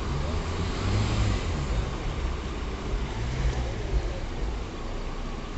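Road traffic: vehicle engines running with steady street noise.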